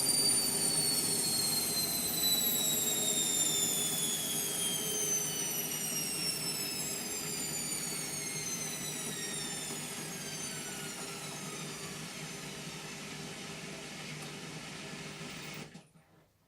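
Indesit MTWC71252WUK washing machine winding down from its final spin: the motor and drum whine falls steadily in pitch and grows quieter as the drum slows. The sound cuts off suddenly shortly before the end.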